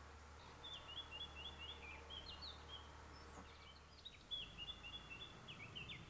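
A songbird singing two short phrases of quick, repeated chirping notes, each phrase lasting about two seconds, with a brief pause between them.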